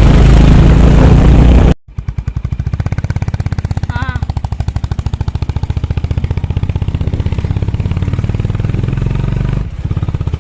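Loud wind rush on the microphone while riding. After an abrupt cut, a motorcycle engine runs with a fast, even pulsing beat. A brief warbling chirp comes about four seconds in.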